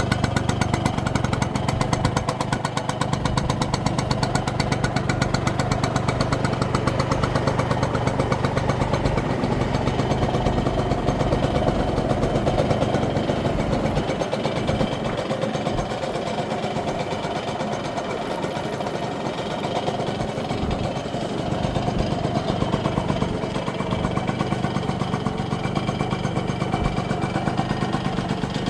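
1966 Yamaha YA6 125cc single-cylinder two-stroke motorcycle engine idling with a rapid, even beat, dipping a little in loudness for a few seconds midway. The engine runs smoothly.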